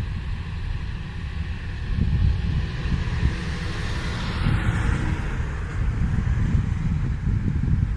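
Wind buffeting the microphone in a heavy, uneven low rumble, over a steady hiss that swells and fades about four to five seconds in, like traffic passing. No sparrow chirps stand out.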